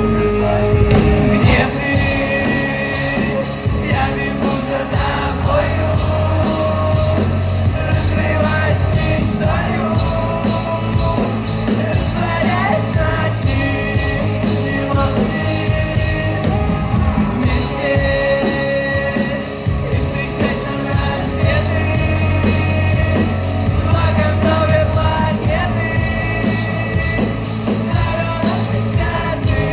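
Live rock band playing with a singer, heavy bass and drums, heard as a loud concert recording.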